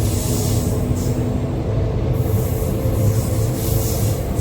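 Passenger train running along the track: a steady low rumble of the wheels with recurring surges of hiss.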